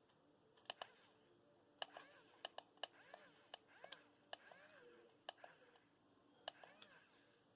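Faint, irregular sharp clicks and ticks, about a dozen over several seconds, with a faint wavering whine between some of them.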